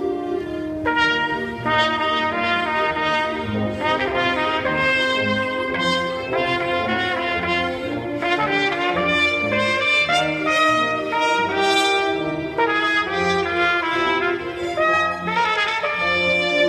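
Solo trumpet playing a lively melody of quick runs and held notes over a band's sustained low brass chords.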